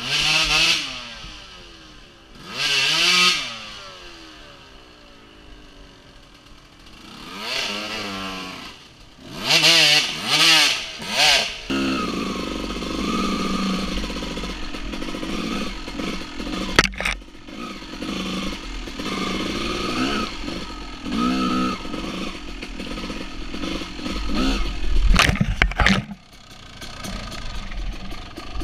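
Two-stroke dirt bike engine revving hard in several separate bursts, the pitch climbing and dropping with each throttle blip. About halfway through it settles into steadier running, broken by a sharp knock and more throttle bursts near the end.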